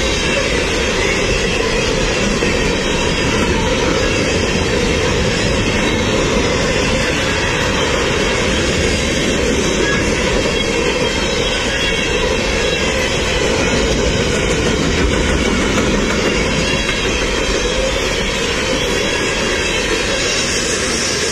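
Freight train cars rolling past at close range, a steady, unbroken noise of steel wheels on rail.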